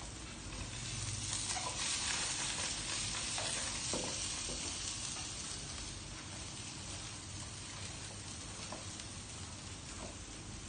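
Food sizzling as it fries in oil in a pan, a steady hiss that swells about a second in and eases off after the middle, with a few faint clicks.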